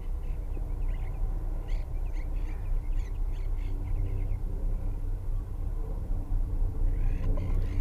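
Monk parakeets calling in short, scratchy chirps, a cluster about a second or two in and more near the end, over a steady low hum.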